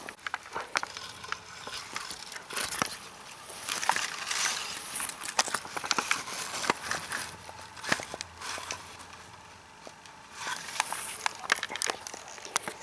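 Grass and plant stems rustling and crackling close to the microphone, with many small irregular snaps: vegetation being pushed through and handled.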